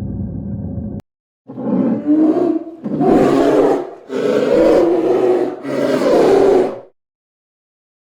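A large farm animal giving four loud, rough calls in quick succession, each about a second long, after a steady low drone cuts off about a second in.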